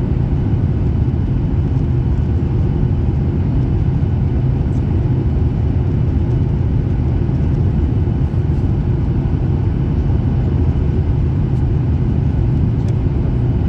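Steady low rumble of a Boeing 737 heard from inside the cabin: engine and airframe noise with no change in pitch or level.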